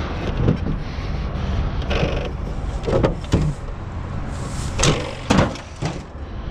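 Junk being shifted about in a dumpster: a string of separate knocks and scrapes, about seven in all, over a steady low rumble.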